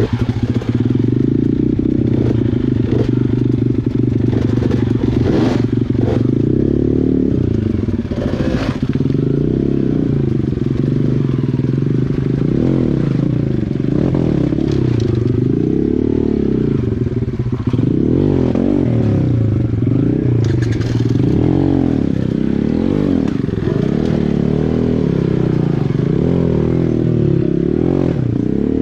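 Small dirt bike engine revving up and down again and again, its pitch rising and falling every second or two, with a few sharp knocks and clatter from riding over rocks.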